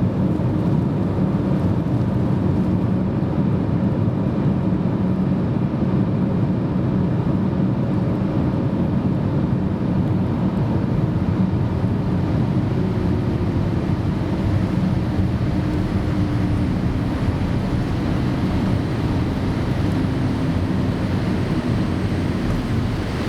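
Steady low rumble inside the cabin of a Boeing 787-8 airliner on the ground after landing, with a faint steady hum over it.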